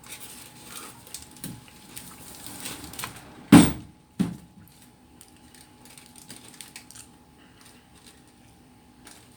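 Faint scattered clicks and light knocks, with one loud thump about three and a half seconds in and a smaller knock half a second later.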